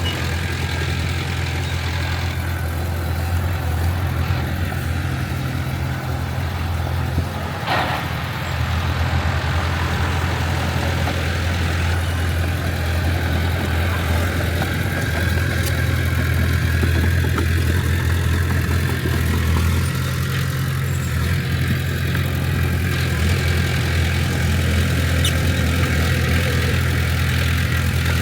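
Heavy earthmoving diesel engine running steadily with a deep hum, with a single short knock about eight seconds in.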